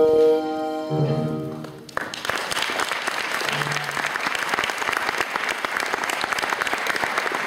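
The last notes of a song fade out over the first two seconds, then an audience breaks into steady applause.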